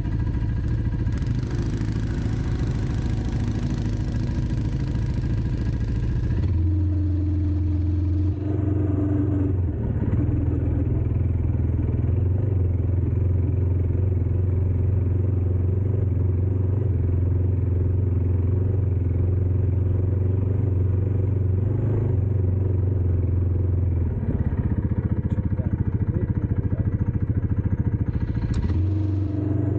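Dirt bike engine running steadily, its note stepping up or down a few times. A hiss lies over it for the first six seconds or so.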